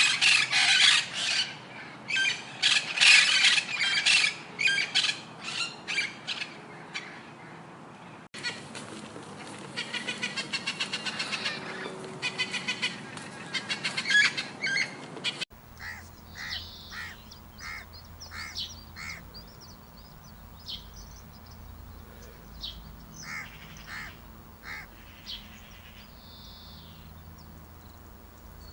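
Bird calls from three spliced recordings, with abrupt changes about 8 seconds and 15 seconds in. The first two are dense, busy calling, the second with an even repeated pulse; the last holds sparser short calls.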